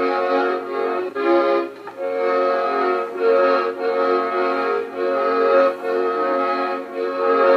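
Accordion playing a tune in sustained chords, the notes changing in short phrases with brief breaths between them. It is an old home tape recording that runs a little fast, so the pitch sounds higher than it really was.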